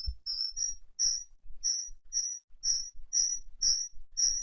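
Short, high chirps repeating about twice a second, steady in pitch and evenly spaced.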